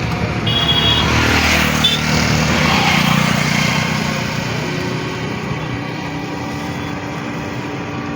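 A motor vehicle running, with steady engine hum and road noise that swell for a few seconds and then ease off. Short high beeps sound twice in the first two seconds.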